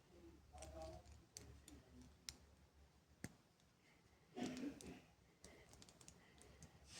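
Faint, irregular clicks and light taps, with a louder rustling patch about four and a half seconds in.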